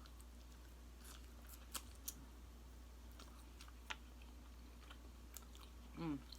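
Quiet chewing: a few scattered wet mouth clicks and lip smacks, with a short voiced sound from the eater near the end.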